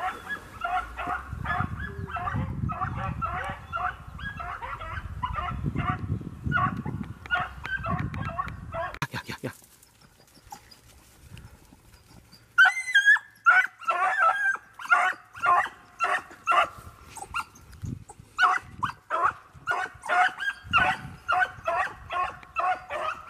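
Hunting dogs barking in quick, repeated bursts, several a second, as they run a rabbit. The barking stops about nine seconds in and picks up again about three seconds later.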